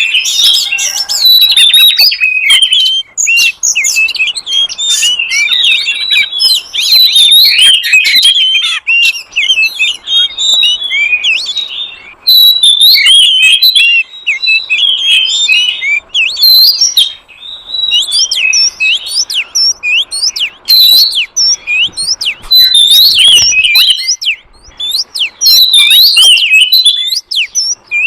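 Oriental magpie-robin (kacer) singing: a fast, unbroken stream of varied chirps and whistled slurs. It is a lure recording, played to draw wild magpie-robins in.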